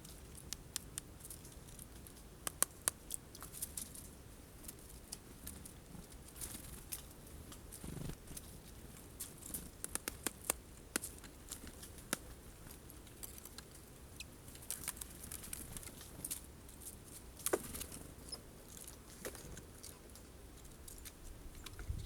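Irregular sharp clicks and taps of birds pecking at and handling sunflower seeds on a feeder, with a few louder knocks scattered through.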